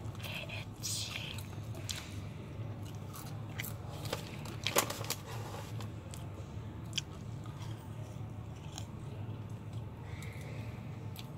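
Close-miked chewing of crispy fried chicken: scattered crunches and wet mouth clicks, the loudest crunch about five seconds in, over a low steady hum.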